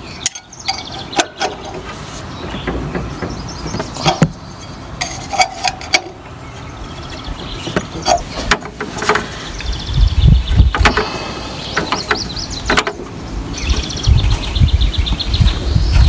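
Scattered knocks and clatter of hands working with tools and a hose under a garden tractor during an oil drain. Low rumbling bursts come in about two-thirds of the way through and again near the end, with faint bird chirps.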